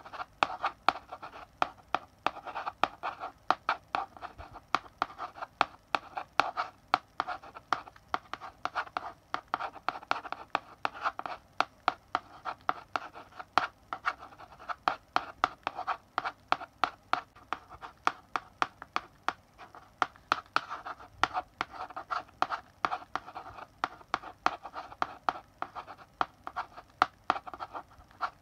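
Chalk writing on a blackboard: quick taps and short scratching strokes, several a second, going on throughout in stretches of a few seconds as words are written.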